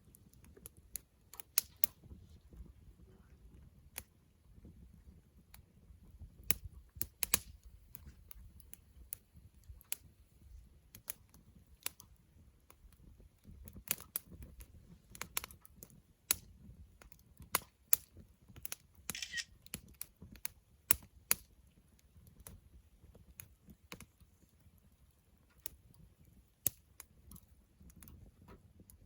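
Wood campfire crackling: irregular sharp pops and snaps over a low, steady rumble of the flames.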